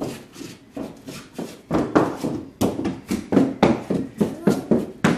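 A rapid, irregular series of sharp knocks or taps, about three a second, growing louder about two seconds in.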